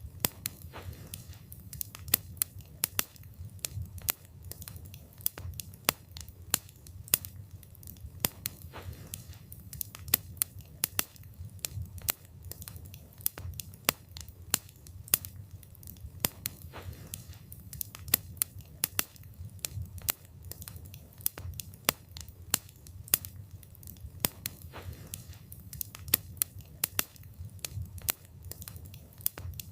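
Wood fire crackling: many sharp, irregular pops and snaps of burning wood over a low, steady rumble of the flames.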